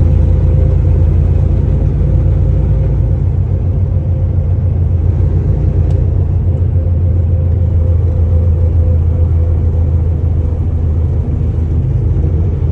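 Semi truck running, a loud steady low rumble heard from inside the cab.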